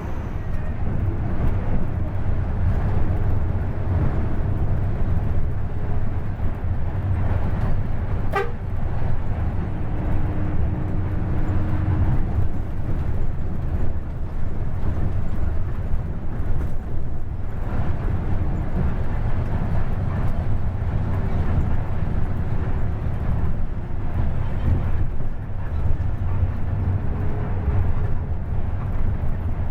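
Bus engine running with a steady low rumble, with one sharp click about eight seconds in.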